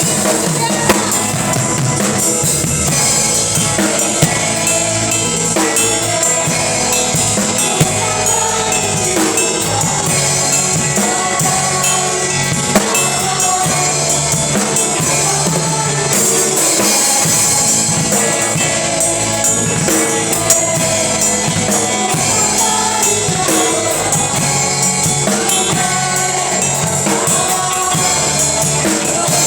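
Live band music driven by a drum kit playing a steady beat with bass drum and rim accents, with other instruments and possibly voices over it. A few sharp accent hits stand out above the music.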